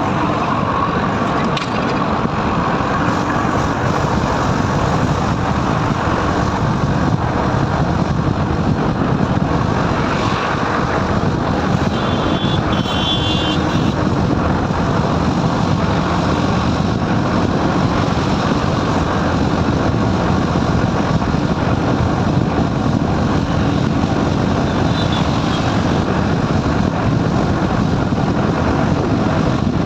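Steady rush of wind and engine noise from a motorcycle riding along a highway. A brief high-pitched tone sounds about twelve seconds in.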